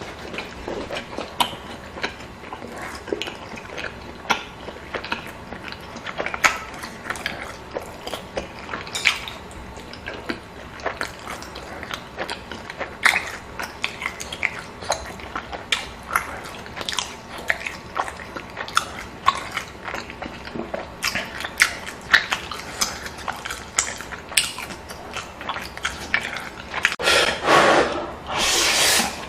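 Close-miked eating sounds: chewing and biting, with frequent short wet clicks and crunches of food in the mouth, and a louder, longer noisy stretch near the end.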